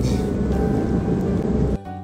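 Steady low rumble and hiss of a moving KTM ETS electric train heard inside the carriage, with music faintly over it. The sound drops off abruptly near the end.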